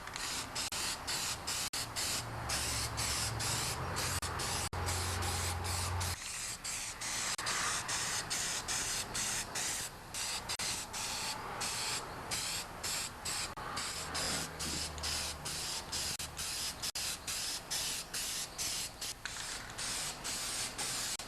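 Aerosol can of gloss black spray paint hissing in many short bursts with brief gaps between them, laying a first light coat. A low hum sits under it for a few seconds near the start and again past the middle.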